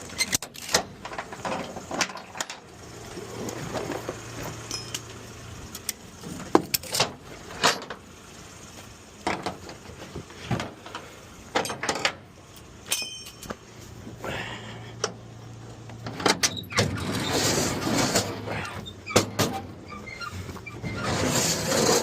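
Repeated sharp metal clanks and knocks from fitting wheel skates under a car whose front wheels are locked, with a low steady hum for stretches and a rushing noise building near the end.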